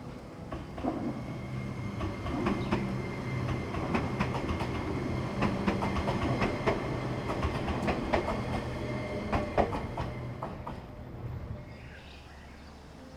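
Train running on rails, with a low rumble and a steady hum under many sharp clicks and clacks from the wheels. It fades away in the last few seconds.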